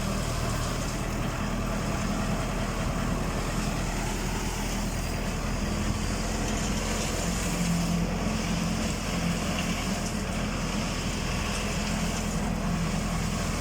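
Tractor's diesel engine running steadily, driving a PTO-powered transit concrete mixer drum.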